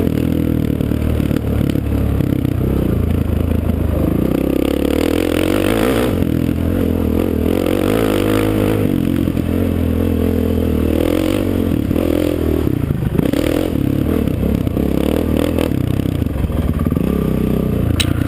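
Off-road vehicle engine being ridden hard, its pitch rising and falling steadily with throttle and shifting, with a sharp click near the end.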